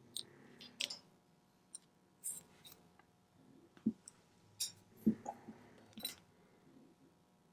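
Scattered small clicks and light taps of watchmaker's tools and small parts being handled on the bench, with a couple of duller knocks about four and five seconds in.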